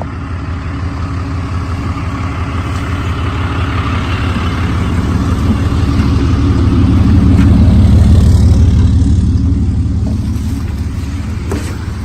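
A truck engine running as the truck moves past close by. The rumble swells to its loudest about two-thirds of the way through, then fades as it pulls away.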